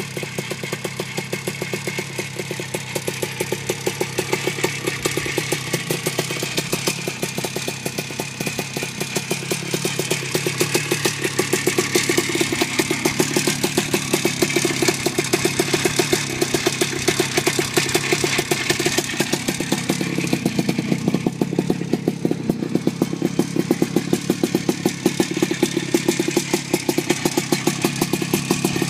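Minsk 3.112 125cc single-cylinder two-stroke engine running steadily with a fast, even pulse, getting louder about ten seconds in. It is jetted with a 145 main jet in a 34mm Ikov carburettor, which the owner found less clean and responsive than a 125 jet.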